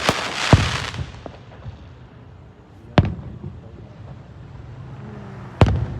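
Fireworks exploding: three loud booms about two and a half seconds apart, with a crackling hiss in the first second.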